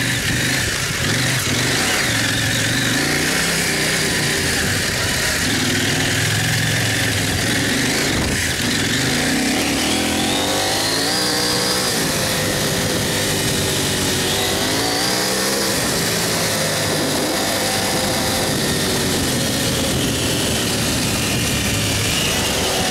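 Dirt bike engine running under way on a trail, its pitch rising and falling with the throttle and climbing sharply twice in the middle, over a steady rush of wind on the microphone.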